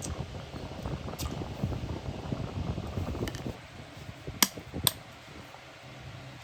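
Low rumbling noise that stops about three and a half seconds in, then a few sharp metal clinks, the two loudest half a second apart.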